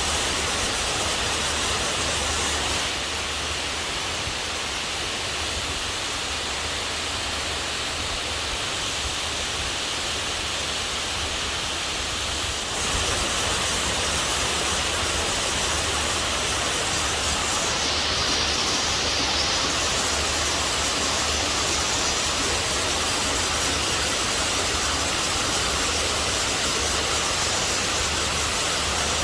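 Heavy tropical rain pouring down as a steady, dense hiss, easing slightly for about ten seconds a few seconds in before returning to full strength.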